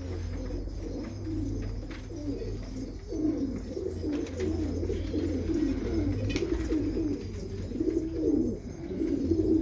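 Domestic pigeons cooing continuously, several birds overlapping, over a steady low hum.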